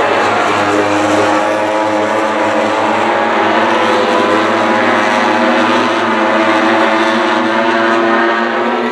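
Racing motorcycle engines running at high revs: a loud, steady note made of several tones that wavers slightly up and down.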